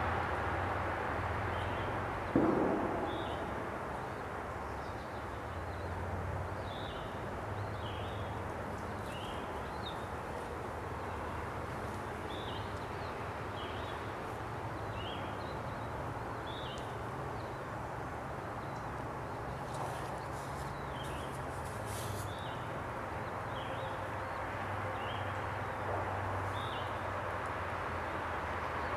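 Short high bird chirps repeated about once a second over a steady low background rumble, with a single thump about two seconds in.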